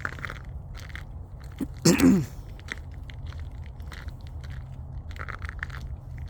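Footsteps crunching along a path at a walking pace. About two seconds in comes a brief, louder vocal sound that falls in pitch.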